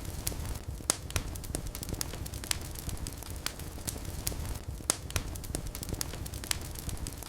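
Wood fire burning in a fireplace: irregular sharp pops and crackles, several a second, over a steady low rumble of flames.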